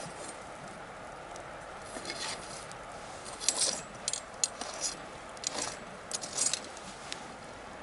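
Wood bonfire crackling: sharp pops and snaps in quick clusters from about two seconds in, the loudest near the middle, over a steady low hiss of the fire.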